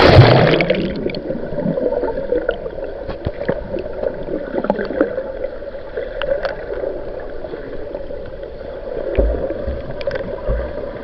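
A loud splash, then sea water sloshing and gurgling close to the microphone, with small clicks and a few low thumps near the end.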